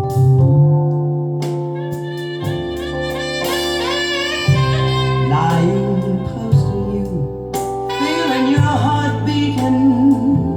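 A slow pop ballad played back through home-built loudspeakers with Isophon P21 and Realistic 40-1374 drivers: sustained keyboard chords and bass under a wavering lead melody, with no sung lyrics.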